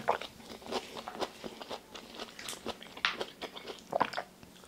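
Close-miked biting and chewing of watermelon and fruit pieces from watermelon hwachae, eaten off a wooden spoon: irregular crunchy mouth clicks, a couple of them louder about three and four seconds in.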